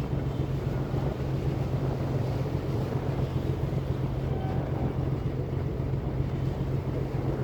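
Ferry boat engine running with a steady low hum, with wind noise on the microphone and water sounds.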